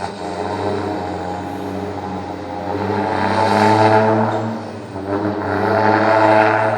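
Mercedes-Benz Axor 3240 truck's button-operated singing exhaust giving deep, horn-like blasts over the idling engine. The blasts swell and fade twice, about halfway through and near the end.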